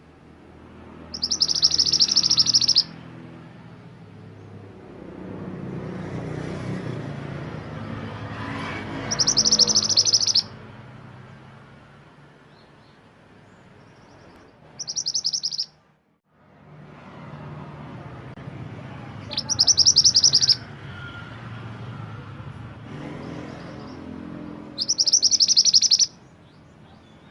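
Mantenan gunung songbird repeating a short, high, rapid song phrase about a second and a half long, five times with pauses of several seconds between, over a low background rumble.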